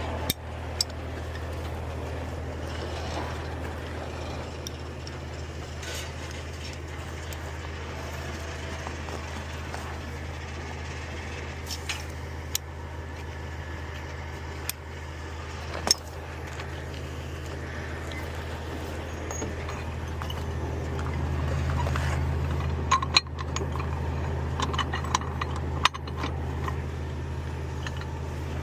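Truck engine idling steadily. Sharp metallic clinks of chain and cable hardware being rigged break in now and then. The engine grows louder about two-thirds of the way through, followed by a cluster of clinks.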